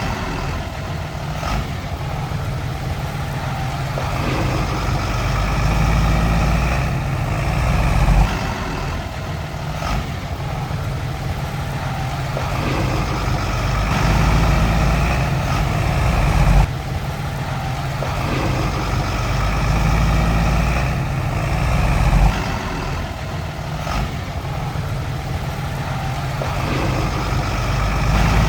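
Heavy diesel earthmoving machinery running, its engine swelling under load and easing off again every several seconds, with a few brief sharp knocks.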